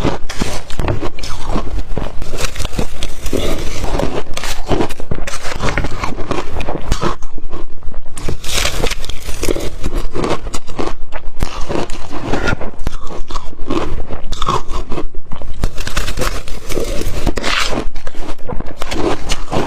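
Close-miked biting and chewing of blender-crushed ice: a loud, dense run of rapid crunches that keeps going without a break.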